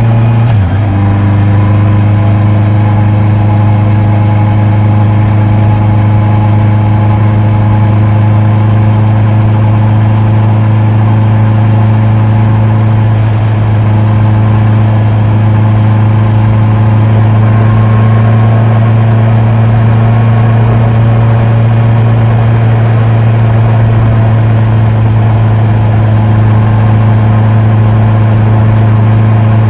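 Honda CB650R inline-four engine and exhaust running steadily at constant revs. The pitch dips briefly and picks straight back up about half a second in.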